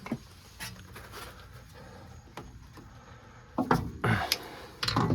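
Several sharp knocks and clinks of metal brake parts and hand tools being handled, coming in a quick cluster about three and a half seconds in and again near the end.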